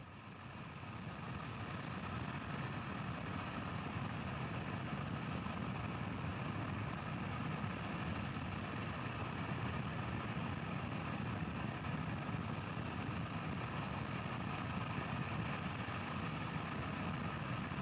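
Steady hum and hiss with no distinct events, fading up over the first couple of seconds and then holding even.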